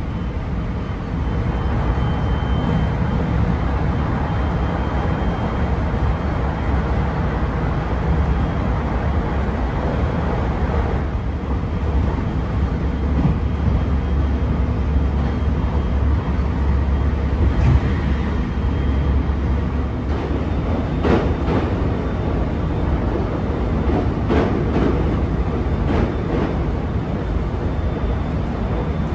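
JR commuter train running at speed, heard from inside the carriage: a steady low rumble of wheels on rails, with a few sharp clicks and knocks in the second half.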